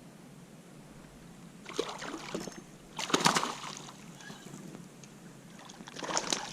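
Water splashing and sloshing beside a kayak, in two short bursts about two and three seconds in, with more splashing starting near the end.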